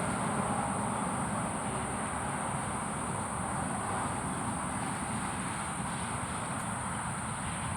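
A steady, high-pitched insect chorus, like crickets, over a low, even rumble of traffic.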